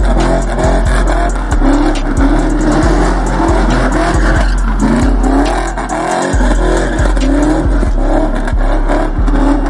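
Car engines revving with tire squeal under loud music that has a heavy, pulsing bass beat.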